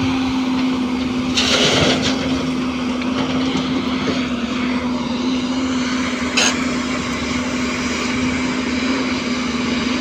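A diesel engine running steadily with an even drone, with a brief surge of noise about two seconds in and a sharp click about six seconds in.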